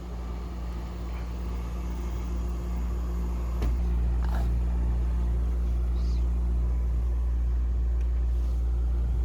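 Steady low mechanical hum with a constant drone, getting a little louder about three and a half seconds in, of a window-type air conditioner running.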